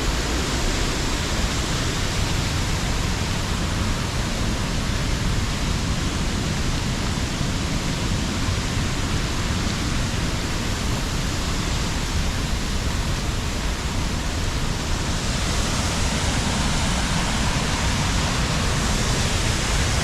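Waterfall on a river, the rushing water a steady, unbroken roar.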